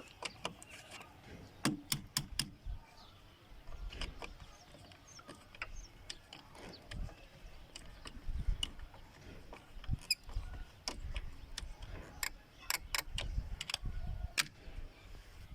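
Scattered, irregular metal clicks and taps of a spanner tightening the clamp nut on a car battery terminal, with a few low handling bumps.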